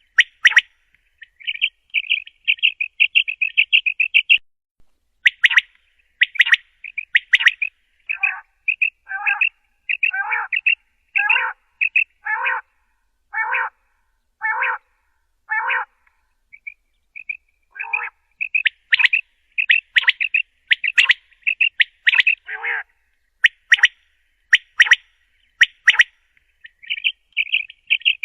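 Common quail calling: fast trilled chatter and sharp repeated notes, with a run of evenly spaced lower, fuller calls about once a second in the middle, then a pause and renewed rapid notes near the end.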